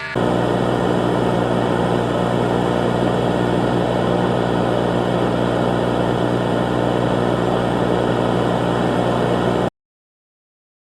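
Loud, steady engine-like drone with a low hum, starting abruptly and cutting off suddenly about a second before the end.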